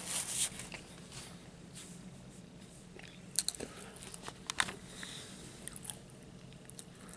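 A person chewing a mouthful of French dip sandwich, with a paper napkin rubbing across the mouth at the start and a few sharp wet mouth clicks about three and a half and four and a half seconds in. A low steady hum runs underneath.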